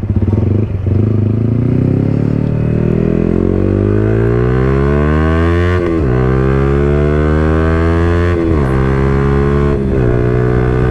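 Yamaha R15 V4's 155cc liquid-cooled single-cylinder engine, breathing through an Akrapovic exhaust with the dB killer removed, accelerating hard. The rising note falls sharply at three upshifts, about six, eight and a half and ten seconds in, climbing again after each.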